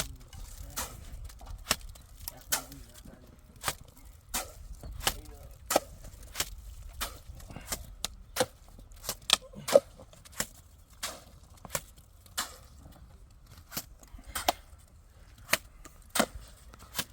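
Repeated sharp knocks of a tool striking, irregularly about one to two a second, like chopping or hammering work.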